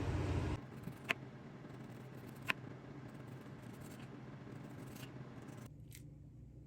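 A steady rushing noise cuts off about half a second in, then a handful of sharp clicks and light scrapes from kitchen prep work, the two near the start the loudest.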